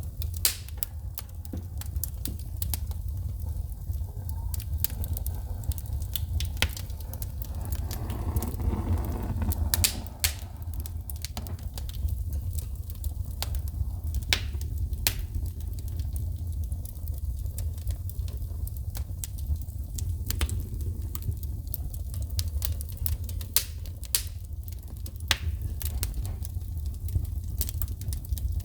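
Wood fire burning in a fireplace, crackling with irregular sharp pops and snaps as sparks shoot, over a steady low rumble. A swell of softer noise comes in around eight seconds in.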